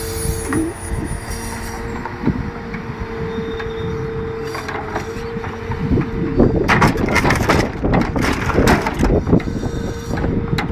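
Timber-truck loader crane at work with the Scania V8 engine running steadily under a constant tone. From about six seconds in, logs knock and clatter against each other and the wagon for a few seconds as a load is gripped and shifted.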